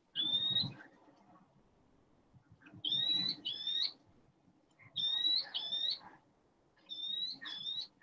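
A bird calling: a clear, high whistled note, given once and then in three quick pairs, about two seconds apart.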